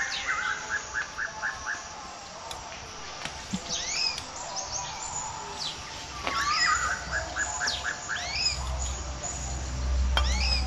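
Birds calling: quick trills of short repeated notes and sharp descending chirps, coming again and again. A low rumble comes in near the end.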